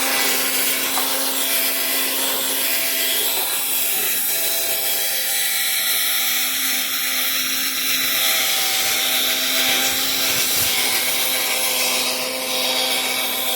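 Cordless drill running steadily while working a fog light lens during restoration: a constant motor hum under a hissing rub of the pad on the plastic.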